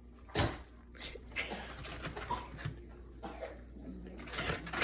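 Miniature schnauzer puppies making small yips and huffs as they play-bite, with the sharpest one about half a second in.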